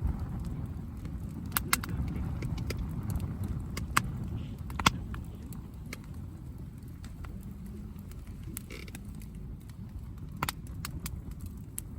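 Wood campfire crackling: a handful of sharp pops and snaps, the loudest about two, four and five seconds in, over a low steady rumble.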